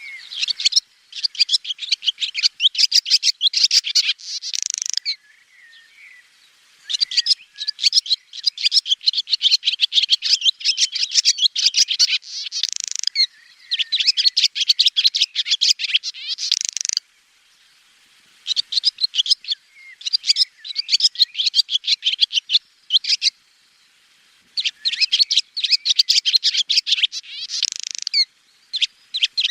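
Swallow twittering: runs of rapid, high chirps and trills a few seconds long, separated by short pauses.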